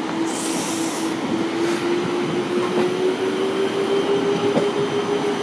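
Passenger train coaches rolling past as the train pulls out of the station. A steady whine slowly rises in pitch as it gathers speed, over the rumble of the wheels, with a short hiss about half a second in.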